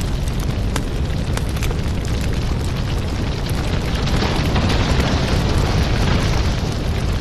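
Crackling wood fire: a steady low rumble of burning with frequent sharp crackles and pops, swelling into a louder hiss for a couple of seconds midway.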